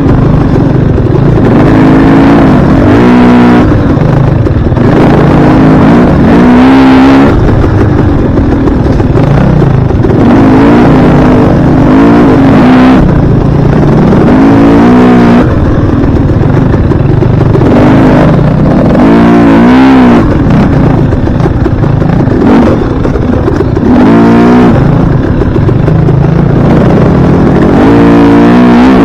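Dirt bike engine running loud under throttle, its pitch climbing and dropping again and again every couple of seconds as it revs up and eases off.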